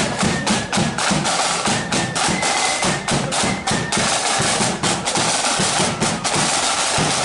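Marching flute band playing: snare and bass drums beat a steady march rhythm under the flutes' high melody.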